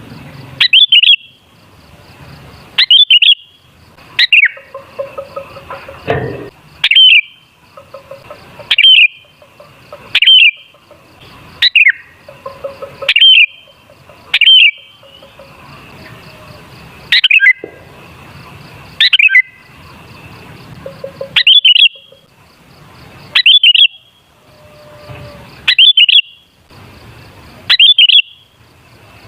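Sooty-headed bulbul (kutilang) singing: short, loud, chirpy phrases repeated every second or two.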